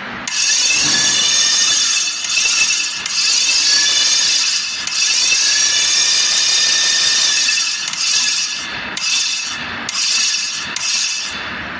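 A tool scraping. It runs almost continuously at first, then goes in separate strokes about once a second near the end.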